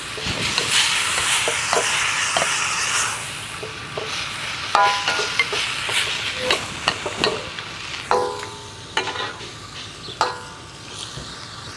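Beef and broccoli stir-fry sizzling in a hot pan while it is stirred, with a metal utensil knocking and scraping against the pan, some knocks ringing briefly. The sizzle is strongest in the first few seconds and then eases.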